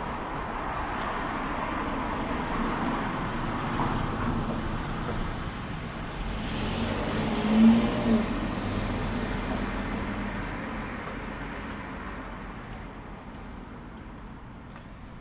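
A motor vehicle driving past: its sound builds, peaks about halfway through, with a brief sharper rise just after, and then fades away.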